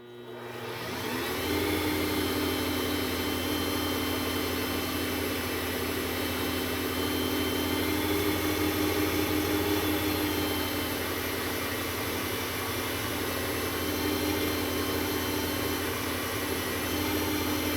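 WEN wood lathe motor spinning up over the first second or so, then running steadily, while an acrylic pen blank turning on it is sanded dry with Zona polishing paper. Sanding dry generates too much heat.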